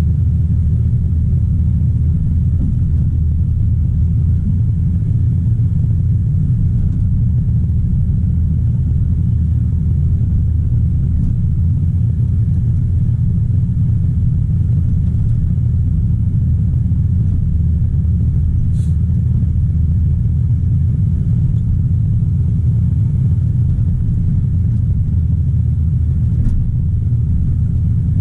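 Caterpillar 973C track loader's diesel engine running steadily, a loud, even low rumble. Two faint clicks come through, one about two-thirds of the way in and one near the end.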